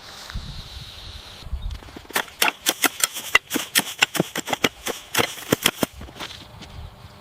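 A quick, irregular run of sharp taps or knocks, several a second, starting about two seconds in and stopping about six seconds in.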